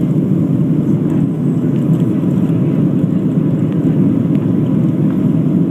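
Cabin noise inside a Boeing 737-700: a steady, loud low rumble of its CFM56 jet engines and the airflow, heard from a window seat.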